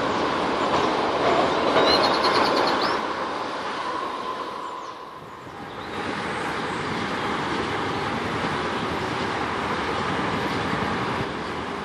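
A multiple-unit passenger train passes close by: a steady rush of wheels on rails, with a thin whine that fades about four seconds in. The noise dips briefly around five seconds, then carries on steadily as the rest of the carriages go by.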